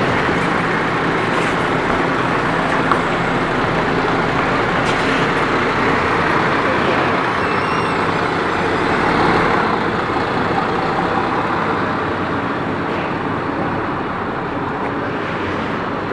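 A heavy vehicle's engine running steadily amid street traffic noise.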